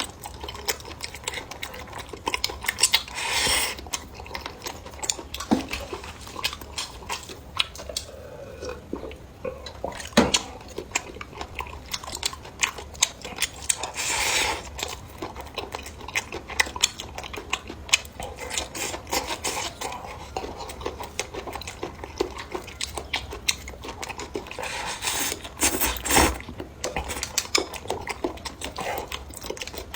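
Close-miked eating sounds: utensils clicking against a dish and bowl, with chewing and crunching, and a few louder crunchy bites.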